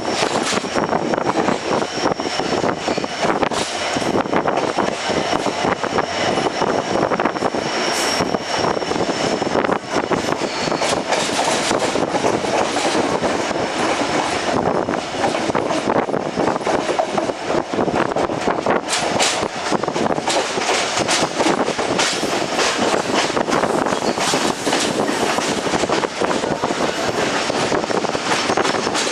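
Passenger train running steadily along the track, heard from on board: a continuous rumble of wheels and coach. A faint high whine sounds through the first ten seconds or so and then fades.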